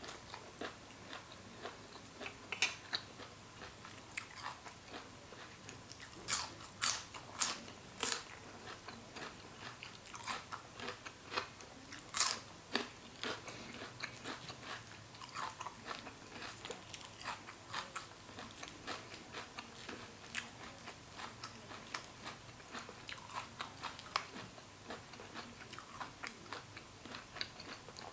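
Close-miked chewing and crunching of a spicy horseshoe crab egg salad, a steady run of short wet clicks and crunches with four louder bites in quick succession about six to eight seconds in and another about twelve seconds in.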